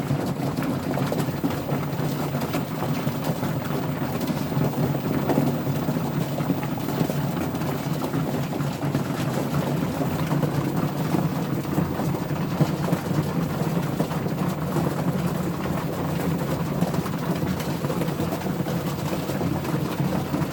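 Steady rain falling, an even rushing patter with a low rumble beneath it.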